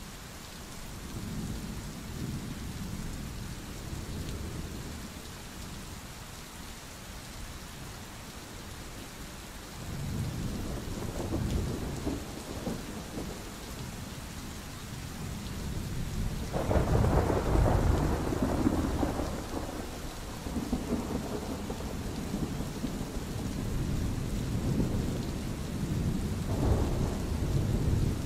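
Steady rain with rolling thunder: low rumbles swell and fade in waves, the loudest starting about sixteen seconds in and lasting a few seconds, another building near the end.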